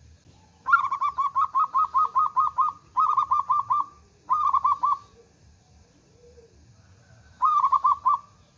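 Zebra dove (perkutut) calling in runs of rapid, staccato cooing notes, about five a second. A long run comes first, then two short ones, a pause, and one more short run near the end.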